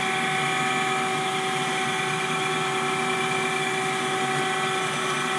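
Schaudt cylindrical grinder running, its grinding wheel spinning with the coolant pump on: a steady mechanical whine of several constant tones over an even hum.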